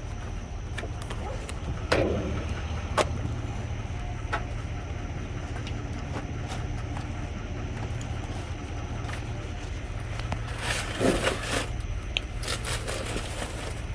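Rummaging through a dumpster with a grabber: a few sharp knocks and clatters, then rustling of bags and papers about ten seconds in, over a steady low hum.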